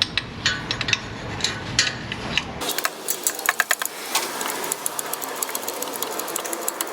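Metal hand tools clinking, then from about two and a half seconds in a dense run of rapid clicks from a ratchet wrench driving bolts.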